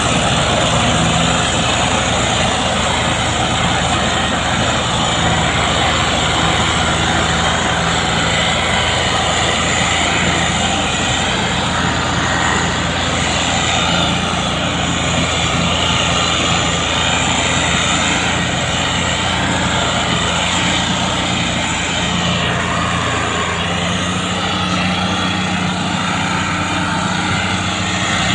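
Fiat tractor's diesel engine running at a steady, heavy drone while pulling a loaded sugarcane trolley.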